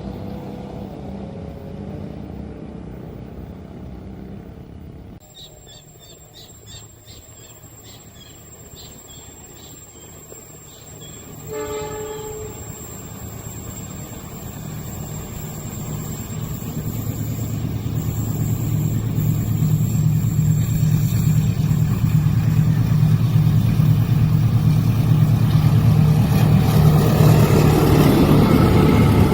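Level crossing warning signal ringing in repeated strikes, then a short train horn blast about 12 seconds in. After that, a diesel-hauled train approaches, its rumble growing steadily louder to the end.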